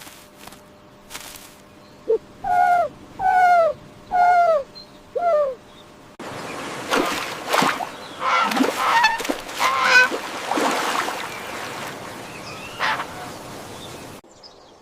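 Farm fowl calling: four separate loud calls that fall in pitch, then a flock of many overlapping calls over a steady hiss, stopping suddenly near the end.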